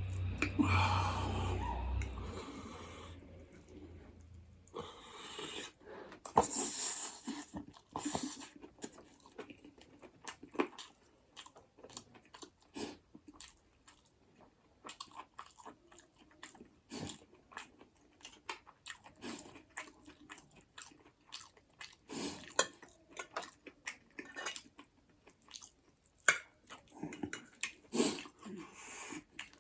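Close-miked eating of buffalo bone marrow with noodles: wet chewing, biting and mouth smacks, heard as a long irregular run of short clicks.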